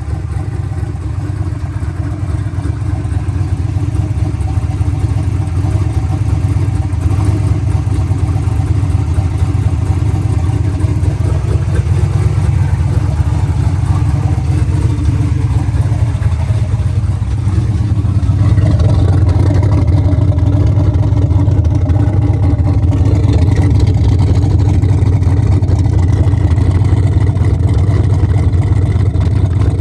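Ford 383 stroker small-block V8 (built on a 351 Windsor block) with Holley Terminator EFI, idling steadily off throttle, a little louder from about halfway through.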